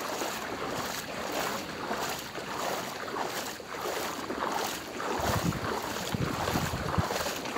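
Water sloshing in a steady rhythm, about two splashes a second, as people wade through floodwater on a road. Wind rumbles on the microphone from about five seconds in.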